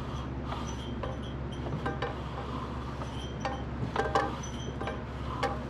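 Light metallic clinks and ticks from a Kohler K241 single-cylinder engine as its crankshaft, fitted with a new piston and rings, is turned over by hand to check for binding. A steady low hum sits under them.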